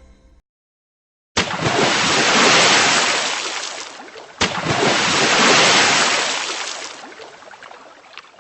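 Rushing sea-water and wind noise in two surges, each starting suddenly, swelling and then dying away, with the second cut off abruptly at the end.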